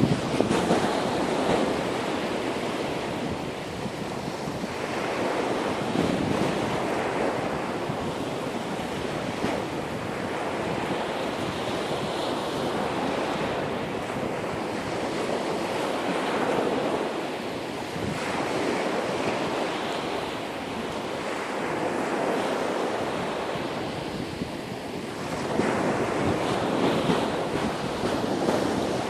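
Ocean surf washing onto a beach, swelling and falling back every few seconds, with wind buffeting the microphone.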